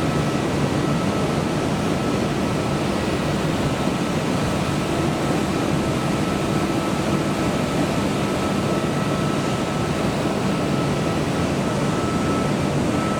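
Steady hum of a stationary electric double-deck train's air-conditioning and auxiliaries, with a thin high whine running through it.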